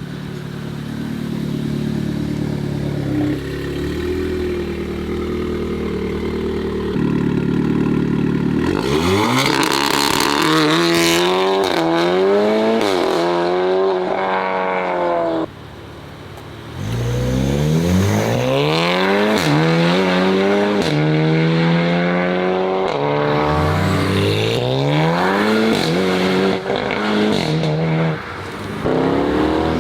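Car engine idling with a low rumble, then accelerating hard through the gears. The revs climb and fall back at each upshift, in two runs with a short lift between them.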